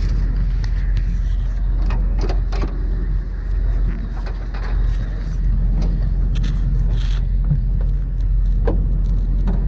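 Steady low rumble of a car running, with a few faint clicks and rattles.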